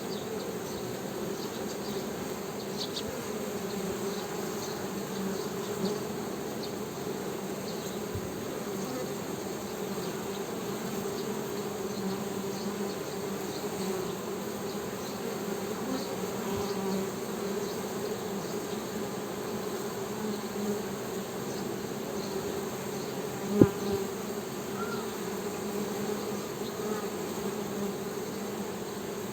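Honey bees humming: a steady, low buzzing drone. A single sharp click or knock about 23 seconds in is briefly the loudest sound.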